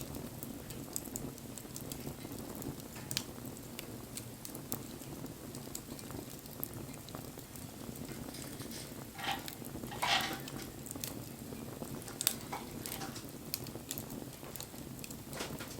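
Wood bonfire burning: a steady low rush of flame with scattered crackles and pops, and a louder hissing crackle about ten seconds in.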